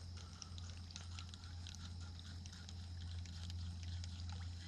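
Fishing reel being cranked through a lure retrieve: scattered light clicks and ticks over a steady low hum.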